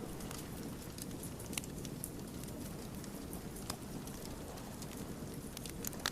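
Wood fire burning with a steady low rumble of flames and scattered sharp crackles and pops from the burning logs, a small cluster of pops near the end.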